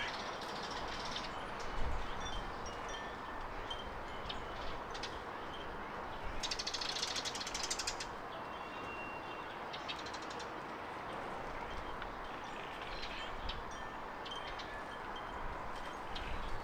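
Garden birds chirping with short high calls scattered over a steady background noise; about six seconds in, a fast run of chattering notes lasts about a second and a half.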